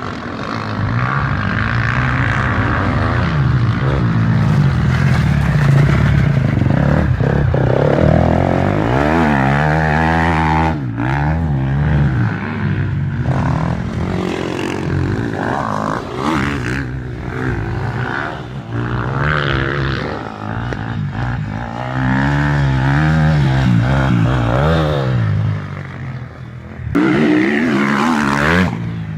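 Motocross motorcycles running on the track, engines revving up and down as riders accelerate and shift, several bikes heard at once. The sound dips briefly near the end, then a bike revs loudly again.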